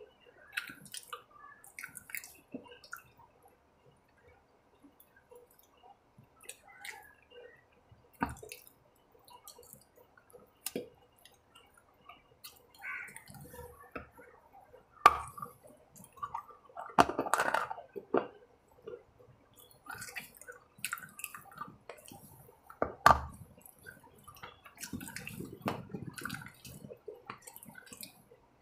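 Close-up eating sounds: wet chewing and smacking of a snack bar, with scattered sharp mouth clicks, a few of them louder.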